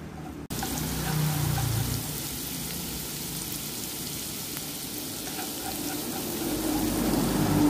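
Minced shallots sizzling in hot oil in a nonstick frying pan, fried until fragrant. The steady sizzle starts abruptly about half a second in and grows louder near the end.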